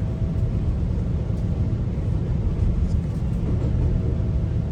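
GO Transit passenger train running along the track, heard from inside the coach as a steady low rumble of wheels on rails.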